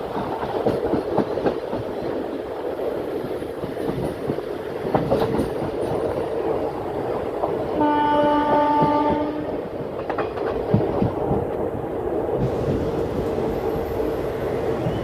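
Passenger train running with a steady rumble and wheel clatter over the rail joints. About eight seconds in, a train horn sounds once, a single steady tone lasting about a second and a half.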